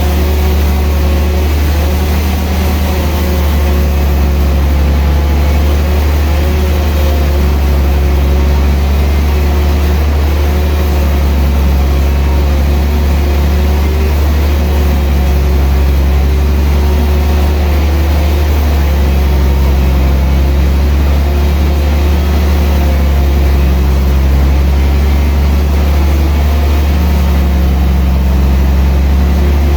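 Sawmill saw running steadily under a heavy motor: a loud, constant low hum with a slightly wavering whine above it.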